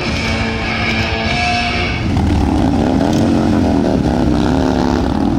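Music for about two seconds, then an abrupt change to a motorcycle engine running, its low pitch rising and falling a little.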